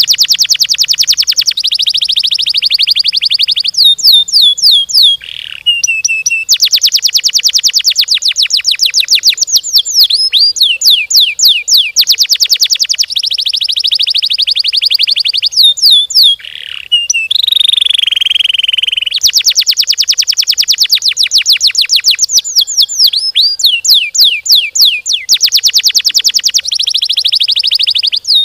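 Domestic canary singing a long, loud rolling song: rapid trills of fast-repeated notes alternating with runs of quick downward-sweeping whistles, with only brief pauses between phrases.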